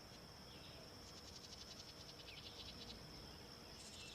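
Faint high-pitched insect chirping, like crickets: a steady high tone overlaid with rapid pulsed trills.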